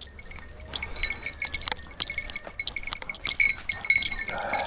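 Dog collar bells jingling and clinking irregularly as bird dogs work through cover.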